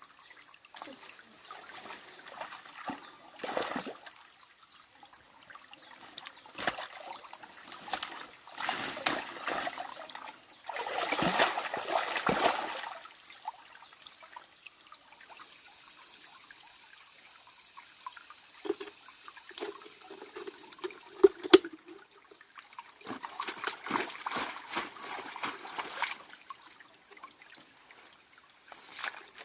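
Water splashing and trickling in irregular bursts, loudest about eleven seconds in.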